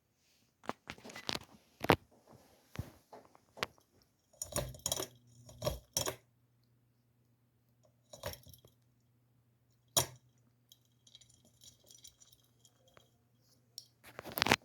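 Hunter Eclipse ceiling fan's pull-chain switch clicking, with the metal chain jingling, several times. A low, steady motor hum starts about four seconds in, after a cluster of clicks, and stops just before a last loud click near the end.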